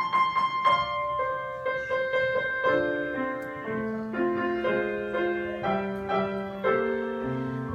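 Piano playing a short solo interlude of melody and chords between the choir's verses, with no singing.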